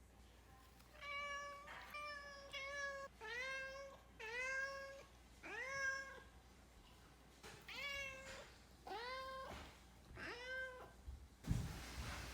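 Domestic cat meowing repeatedly, about eight drawn-out meows, asking to be let into a room. Near the end a sudden burst of noise begins.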